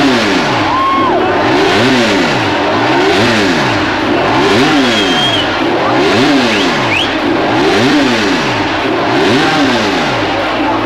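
Honda RC213V MotoGP bike's V4 engine being blipped on the throttle while standing still: about seven sharp revs, each rising and falling back, roughly every second and a half.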